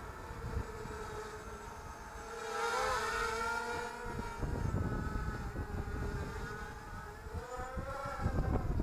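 ZMR250 mini quadcopter's brushless motors and propellers buzzing overhead, the pitch rising and falling with the throttle and loudest about three seconds in. Wind buffets the microphone, gusting harder in the second half.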